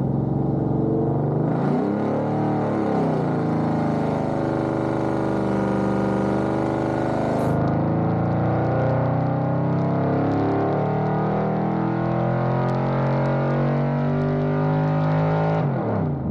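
LT1 383 stroker small-block Chevy V8 running on an engine dyno, held at a mostly steady speed, with a brief dip and pick-up in revs about two seconds in. Near the end the revs fall away sharply.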